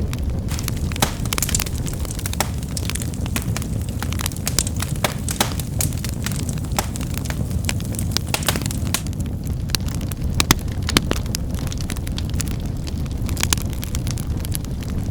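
Wood fire crackling, with a steady low rumble and frequent irregular sharp pops and snaps.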